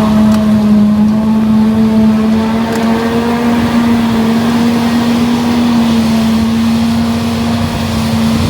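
Heavy diesel harvest machinery running steadily, with a strong, even hum over a low rumble.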